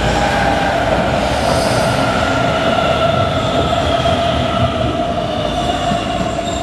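Hamburg S-Bahn electric train running over a temporary bridge: wheels rumbling on the rails with a steady whine that drifts slowly lower in pitch.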